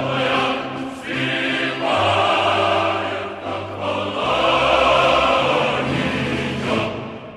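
Background music: a choir singing long held notes over a low accompaniment, dipping briefly near the end.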